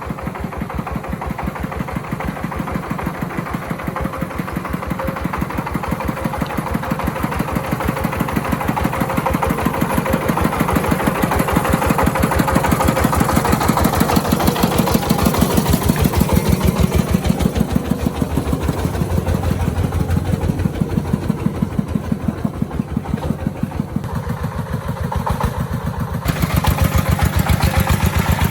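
Engine of an agricultural timber-hauling vehicle running with an even, rapid chug. It grows louder toward the middle, eases off, then picks up again near the end.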